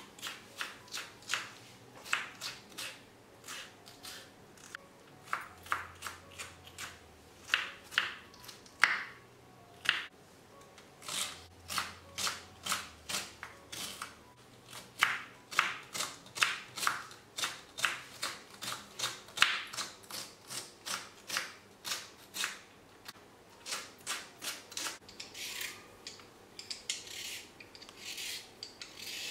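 Kitchen knife chopping green bell pepper and then green beans on a wooden butcher-block board: a long run of sharp taps as the blade strikes the wood with each cut, several a second. Near the end, a rasping scrape as a carrot is peeled.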